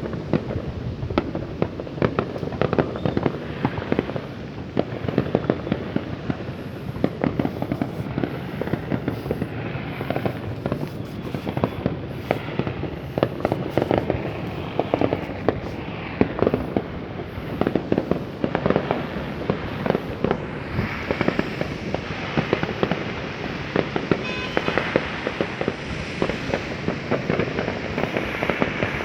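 Many fireworks going off together, a dense, unbroken run of cracks and bangs with no pause.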